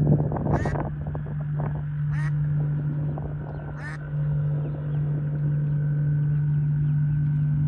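Ducks calling: a cluster of calls in the first second, then a few short, sharp calls spread through the rest, over a steady low hum.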